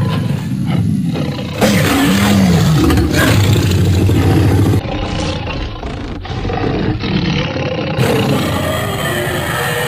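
Loud animated-cartoon roaring from Alex the lion of Madagascar and Marinette, several rough roars one after another with a pitch that rises and falls. About five seconds in the sound turns duller, as a different clip takes over.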